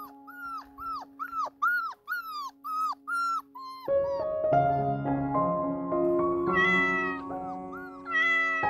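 Young kittens mewing in a quick series of short, high calls that fall in pitch, about three a second, for roughly the first four seconds. The calls then give way to background music, with a couple of longer cries.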